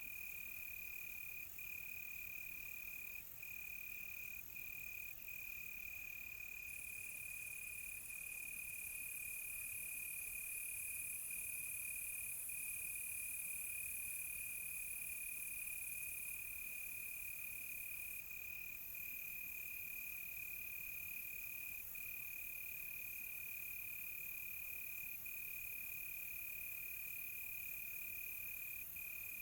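Crickets chirping in a continuous high, steady trill with short breaks every few seconds, over a faint high hiss that swells for several seconds in the middle.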